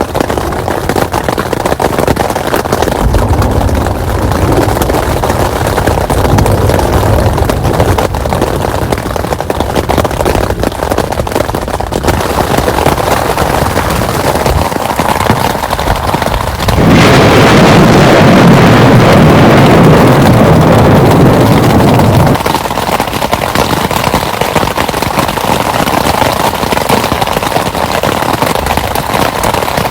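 Heavy rain falling steadily, with low rolls of thunder. About halfway through a loud crack of thunder breaks in suddenly and rumbles on for about five seconds before dropping away.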